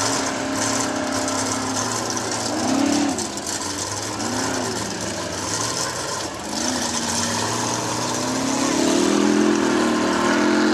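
Formula Offroad buggy's engine revving under load as it climbs a steep sand slope. Its pitch swoops up and down several times, and it gets louder and higher near the end.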